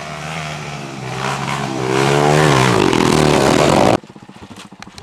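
Motocross motorcycle engine revving, growing steadily louder as it comes closer, its pitch rising and falling with the throttle. The sound cuts off suddenly about four seconds in.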